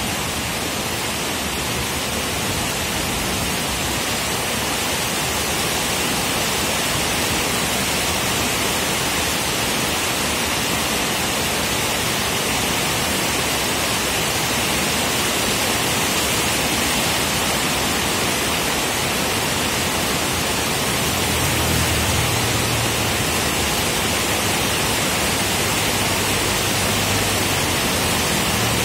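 Heavy tropical rain falling in a steady, even hiss, with a low rumble joining in over the last several seconds.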